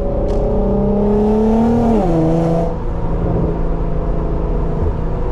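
Car engine and exhaust pulling under acceleration, the pitch rising for about two seconds, then dropping sharply as the revs fall before settling into a steady cruise.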